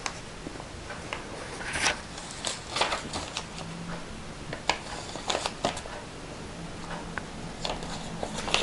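Paper rustling and crinkling as the pages of a handmade junk journal are turned and its pockets and cards handled, with a few light taps and clicks.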